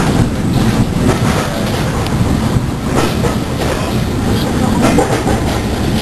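Heritage railway carriage running along the line, heard from inside the coach: a steady loud rumble of wheels on the track with irregular sharp clicks as the wheels pass over rail joints.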